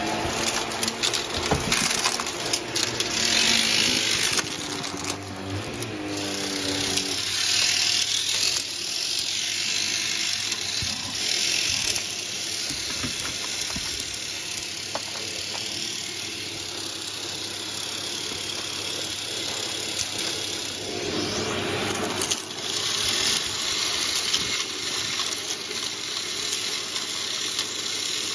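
Vacuum cleaner running and sucking up a dry mess of debris through its hose and metal wand, with grit rattling and clicking up the tube. The suction tone shifts in pitch during the first few seconds as the nozzle moves and catches the mess.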